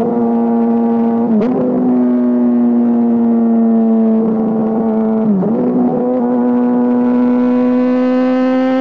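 Honda CBR 600 RR inline-four engine running through a GPR Deeptone exhaust, held at steady high revs as one continuous drone. The revs dip briefly twice, about a second and a half in and again about five and a half seconds in, and creep slightly higher near the end.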